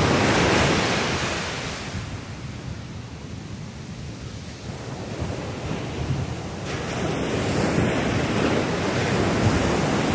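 Atlantic Ocean surf breaking on the beach, with wind buffeting the microphone. Loud at first, it eases for a few seconds in the middle, then swells again as the next wave comes in.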